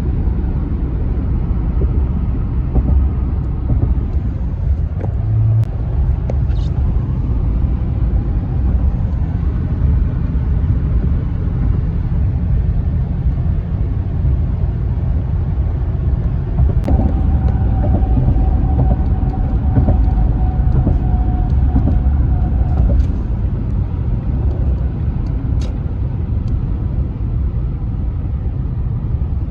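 Steady low rumble of a road vehicle in motion. About two-thirds of the way through, a steady tone with faint regular ticks sounds for several seconds and then stops.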